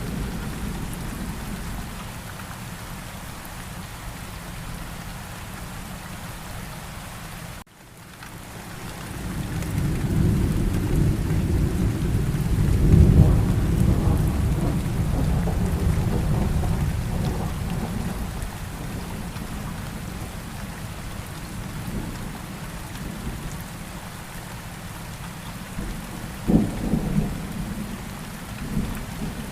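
Steady rain falling, with a long rolling rumble of thunder that swells in about nine seconds in, peaks a few seconds later and slowly fades, and a shorter, sharper thunder rumble near the end. The sound cuts out for an instant just before the first rumble.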